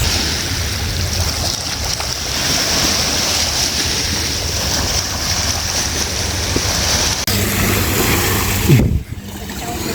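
Surf washing on a shore, with wind noise on the microphone as a steady rush. Near the end a short loud thump comes, and the sound drops out for a moment right after it.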